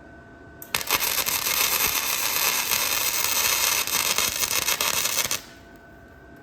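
Electric arc welder laying a weld bead: a dense, steady crackling of the arc that strikes about a second in and cuts off abruptly after about four and a half seconds.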